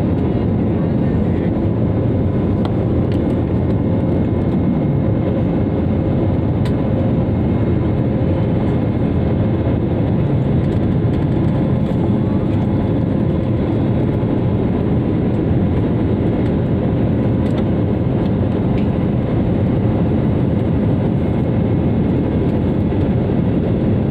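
Airliner jet engines at takeoff heard inside the passenger cabin: a loud, steady rushing roar with a faint constant hum.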